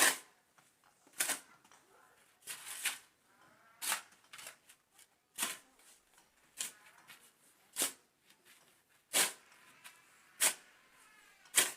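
A hand tool striking and scraping on building material, about ten sharp strokes at a steady working rhythm of roughly one every second and a bit, one of them doubled.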